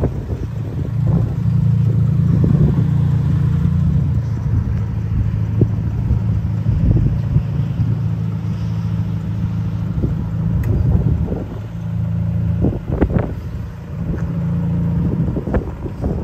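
Mazda RX-8's twin-rotor rotary engine idling steadily.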